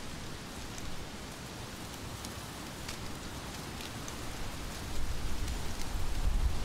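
Steady heavy rain falling, with scattered sharp drop ticks. About five seconds in, a low rumble comes up and the rain grows louder.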